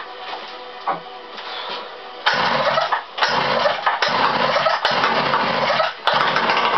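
Motorized bicycle's two-stroke engine starting from cold. After about two seconds it fires and runs in loud surges that cut out and catch again several times. The owner puts this down to a too-rich mixture from a badly set carburettor needle, with the engine flooding.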